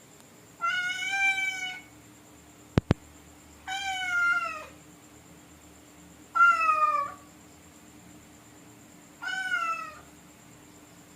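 A cat meowing four times, a few seconds apart, each meow drawn out with a slightly falling pitch. A sharp double click sounds between the first and second meows.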